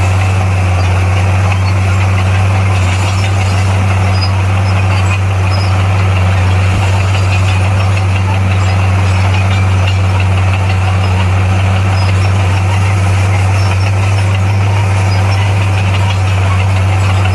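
Heavy construction machine's diesel engine running steadily, a constant deep hum with no change in pitch.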